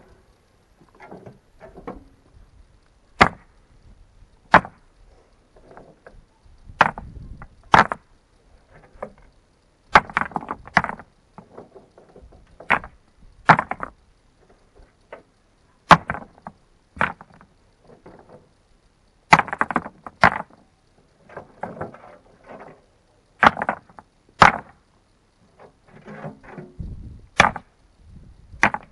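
Hand work with rocks and tools: irregular sharp knocks and clunks, roughly one every second or two, with scraping and shuffling in between.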